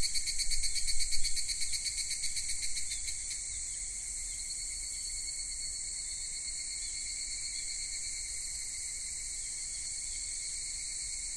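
Insects chirping in a high, dense drone, pulsing rapidly for about the first three seconds and then holding steady.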